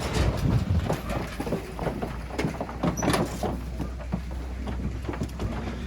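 Pigs being loaded onto a livestock truck: many irregular knocks and hoof clatter on the truck's floor and gates, one brief sharp high sound about three seconds in, over the truck's engine running with a steady low hum.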